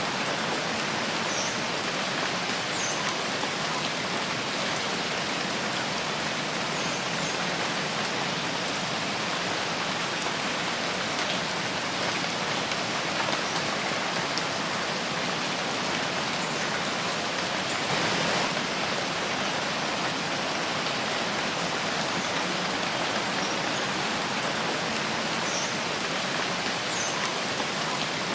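Steady rain falling in a forest: an even, dense hiss of drops with no change in strength. A few faint, brief high chirps sound near the start and again near the end.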